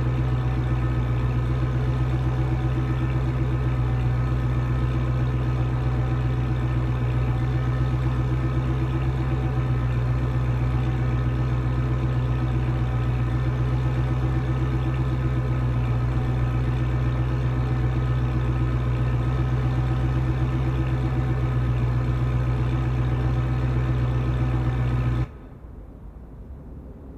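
Car engine idling steadily at a constant pitch, stopping abruptly near the end, after which only faint ticks remain.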